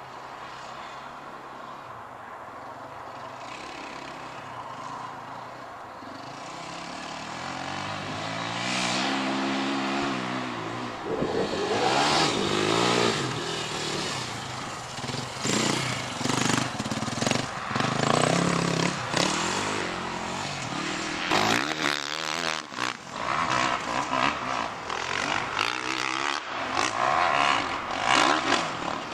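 Enduro/motocross dirt bikes approaching, growing louder from about seven seconds in, then revving hard and passing close by, their engine notes rising and falling in pitch again and again.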